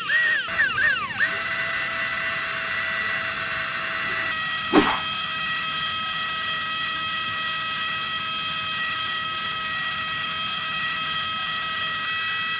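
Small DC motor of a homemade juicer running with a steady whine, after a wavering tone that repeats about four times a second for the first second. A short click comes about five seconds in.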